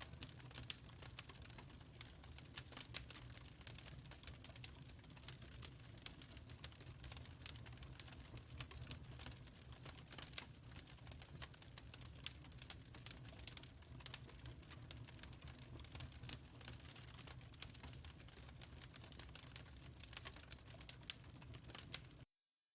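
Wood fire crackling in a firepit: dense, irregular snaps and pops over a low rumble. It cuts off suddenly near the end.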